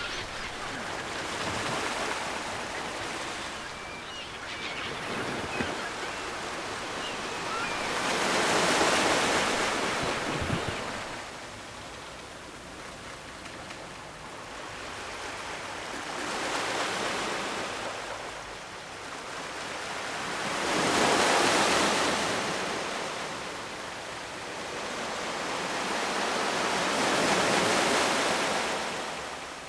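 Ocean surf: waves breaking and washing up the shore, swelling and fading about five times, every five or six seconds.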